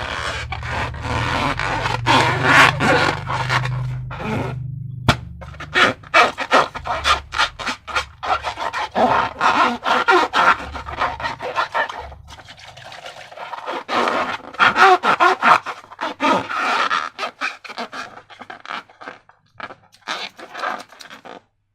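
Slime being squished and worked by hand: dense, irregular runs of wet squelching and crackling clicks with short pauses between them.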